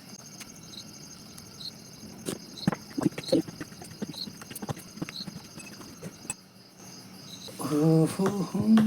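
Close-up eating sounds: irregular wet clicks and smacks of chewing, over a steady high chirping of crickets. A voice comes in near the end.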